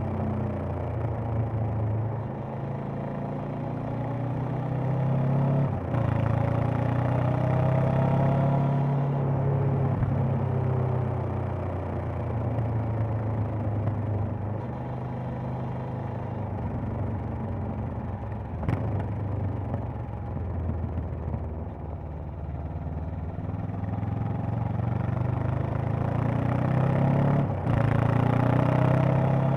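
Honda CB500X's 471 cc parallel-twin engine and exhaust under way: it accelerates, eases off as the bike slows, then pulls up through the revs again near the end. A few short sharp clicks break in along the way.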